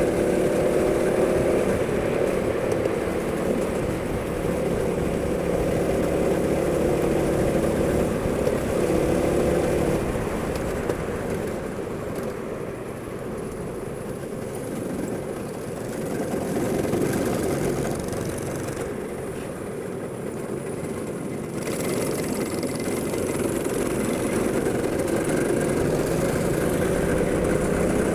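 Go-kart engine running on track, its pitch rising and falling with the throttle. It eases off twice in the middle, then picks up again toward the end.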